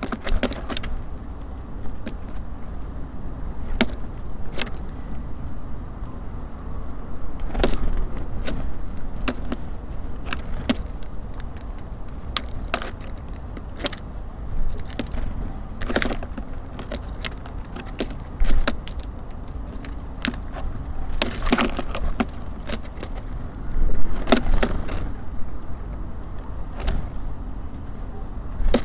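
Irregular sharp taps and knocks of small birds pecking at seed and landing on a bird feeder, over a steady low rumble of city traffic.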